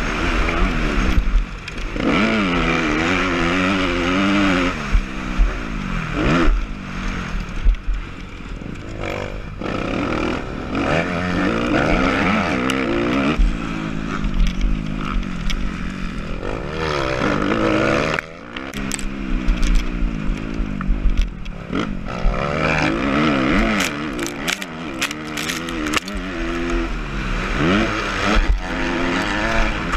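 Suzuki RM-Z250 four-stroke motocross engine revving hard, its pitch climbing and dropping again and again as the throttle is opened and shut, with brief dips where the throttle is chopped about a second and a half in and near 18 seconds.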